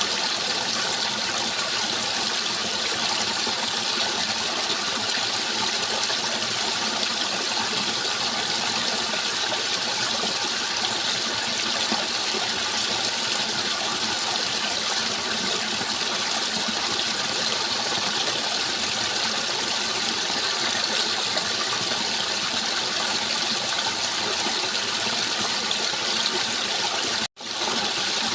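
Steady rushing water, an even hiss of flowing water that drops out for an instant near the end, then resumes.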